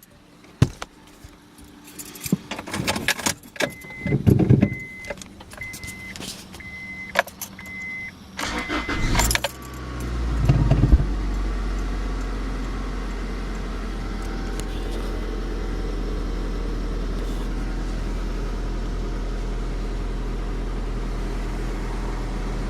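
Keys jangling and clicking, with a short electronic chime beeping about every 0.7 s. Then the 1999 Honda Accord's four-cylinder engine cranks briefly on a cold start, catches about ten seconds in, revs up and settles to a steady idle.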